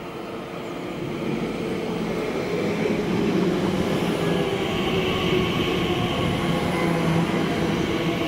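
Class 345 electric multiple unit running into the platform and slowing almost to a stop. Its running noise grows louder over the first three seconds and then holds steady, a rumble with a low hum and higher whining tones.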